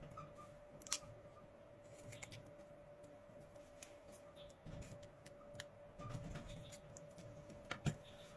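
Faint scattered clicks and small taps of hands working on a rebuilt lithium battery pack, over a steady faint hum. The sharpest click comes about a second in, and two more come close together near the end.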